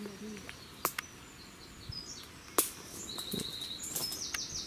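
Small birds chirping and trilling in the trees, with a quick repeated trill near the end. Two sharp snaps or clicks stand out, the louder one about two and a half seconds in.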